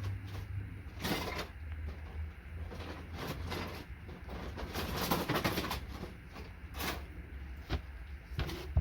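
Circuit boards and hand tools being handled on a workbench: scattered rustling and scraping sounds over a steady low hum, with a sharp knock at the end.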